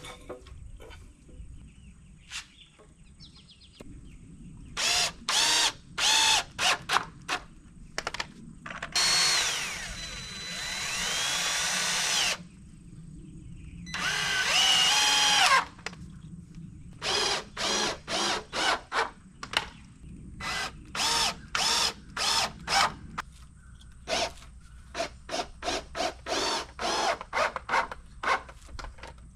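Cordless power drill driving screws into 2x4 lumber in many short trigger bursts, with two longer runs where the motor's whine drops under load and then picks back up.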